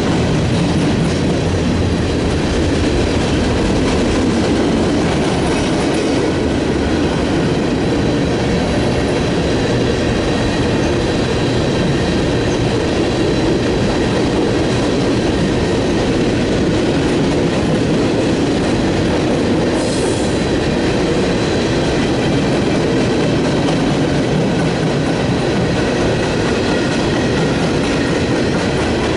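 A train's cars rolling steadily past on the rails: a continuous loud rumble with faint steady high-pitched wheel tones above it.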